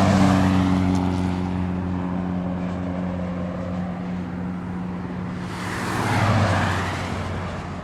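Vehicle engine running with a steady low drone, then a swell that rises and falls about six seconds in, like a vehicle passing close by.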